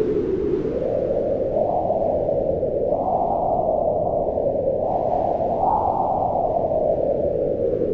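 Howling wind, a steady low rush that rises and falls slowly in pitch in long swells.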